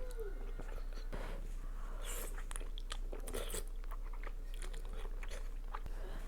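Close-miked eating sounds: a person chewing and biting food, with a string of short clicks spread through.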